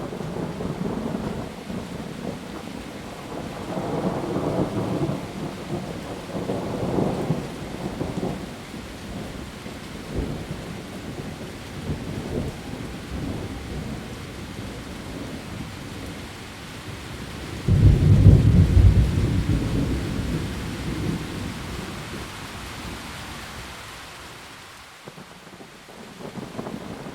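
Heavy rain falling on leaves, a steady hiss, with thunder: low rolling rumbles a few seconds in, then a sudden, louder thunderclap about two-thirds of the way through that rolls away over several seconds.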